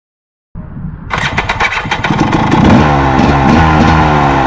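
2014 KTM 300 two-stroke dirt bike electric-started: the starter cranks for about half a second, then the engine catches about a second in and runs, its revs climbing and then falling back.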